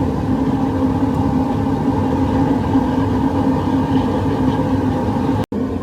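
Propane burner of a casting furnace firing steadily, a dense rumble with a steady hum through it. The sound drops out for an instant near the end.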